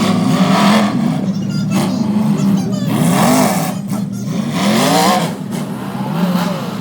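Full-size pickup trucks' engines revving hard in a demolition derby, their pitch rising and falling over and over against a steady drone.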